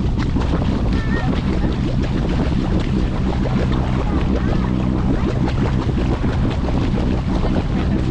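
A sailboat's engine running steadily as the boat motors along, a constant low hum under wind and water noise.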